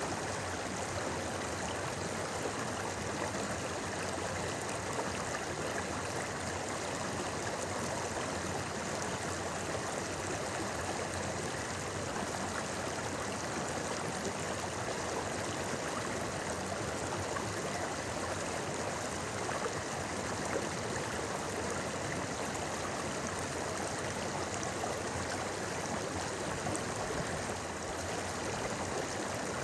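A shallow, clear river babbling steadily, its even rush of flowing water unbroken.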